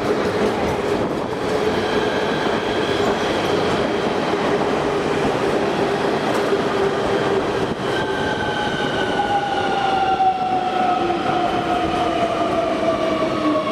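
Train running on the rails, a steady rumble with a held hum tone; from about eight seconds in, a whine sets in and falls slowly in pitch.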